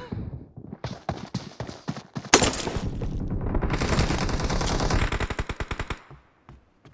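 Video-game automatic gunfire. Scattered shots and one loud single shot about two and a half seconds in lead into a long run of rapid fire, which stops about six seconds in, followed by a few isolated shots.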